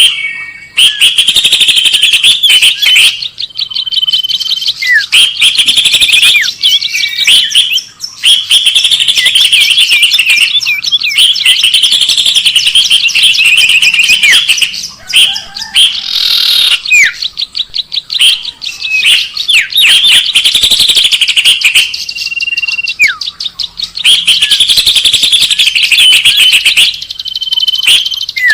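Loud, rapid chattering and chirping of small songbirds in bursts of a second or two, broken by short pauses and a few brief whistles. This is a bird-lure call played to draw in birds of many kinds.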